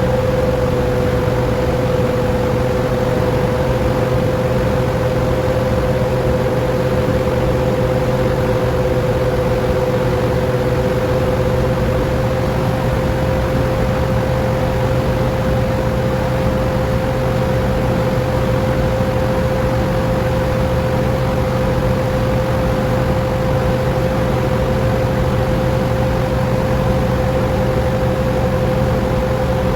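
Industrial grinder machine driven by a 100 HP electric motor running steadily, a continuous loud machine noise with a steady whine over a low hum.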